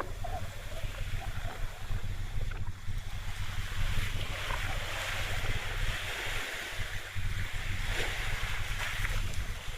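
Wind buffeting the microphone over waves washing on open water, with a steady low rumble underneath.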